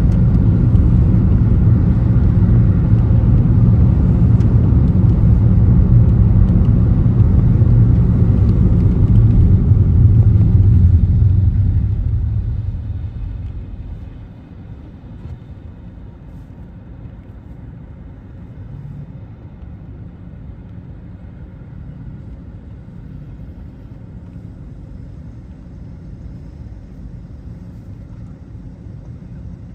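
Car driving, with a loud low rumble and hiss of tyres on the road. About twelve seconds in it dies away over a couple of seconds to a much quieter steady hum, as the car slows to a stop.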